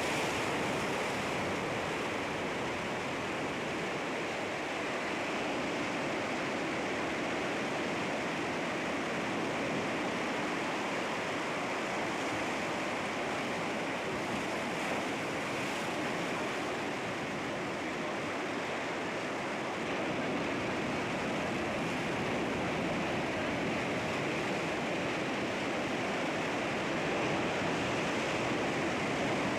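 Sea waves breaking on rocks: a continuous rushing wash of surf, fairly steady, with gentle swells in level.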